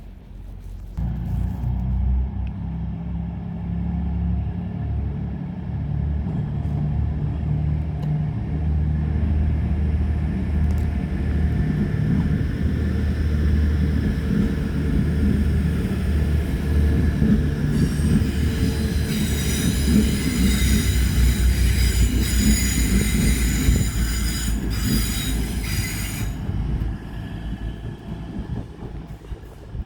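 A train moving along the platform: a heavy low rumble starts about a second in, and a high-pitched squeal of several tones joins it about two thirds of the way through, then stops suddenly.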